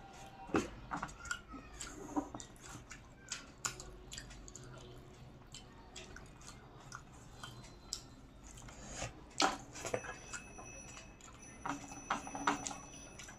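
Close-up eating sounds: chewing and wet mouth smacks with irregular clicks, as rice and curry are eaten. A faint high steady whine joins in for the last few seconds.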